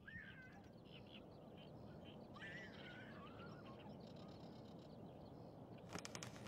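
Faint birdsong, two short bursts of chirping, over a near-silent room ambience, with a few faint clicks near the end.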